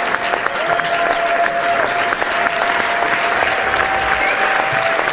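A large crowd applauding, dense and continuous. A steady tone is held over the clapping and steps slightly in pitch a few times.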